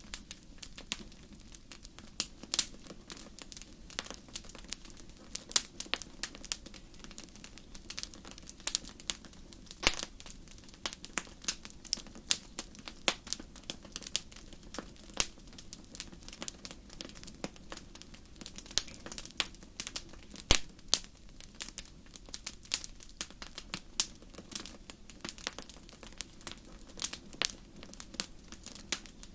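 Wood campfire crackling, with irregular sharp pops and snaps several times a second over a low steady hiss.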